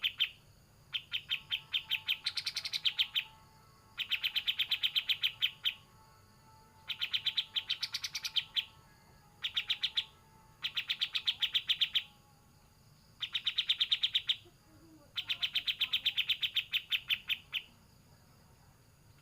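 Kapas tembak songbird singing its rapid rattling trill in repeated bursts of a second or two, about eight in all with short pauses between, stopping near the end.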